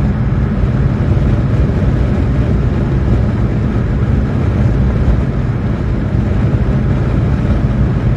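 Road and tyre noise of a car driving on smooth tarmac: a steady low rumble with no squeaky whine. The whine heard on rougher road has gone on the smooth surface, the sign that it comes from a worn tyre and not a wheel bearing.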